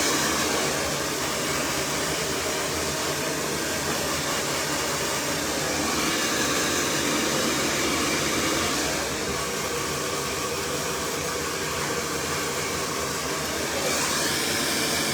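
Cloud 9 hair dryer running steadily, a constant rush of air whose level dips and rises a little as it moves about the hair.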